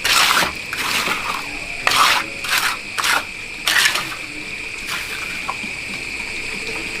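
Rough scraping strokes, seven or so in quick succession over the first four seconds, then fewer, over a steady high-pitched tone.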